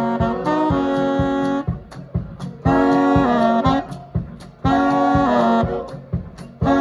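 Live swing band music: the horn section plays a repeated riff of held chords, a new phrase about every two seconds, over a steady bass and drum beat.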